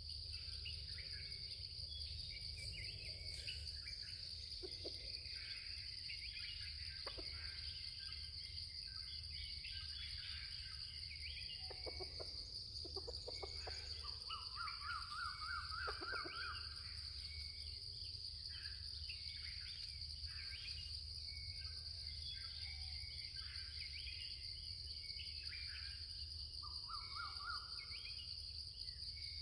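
Natural outdoor ambience: a steady high-pitched insect drone with small birds chirping and calling throughout, including a fast rattling trill about halfway through and again near the end.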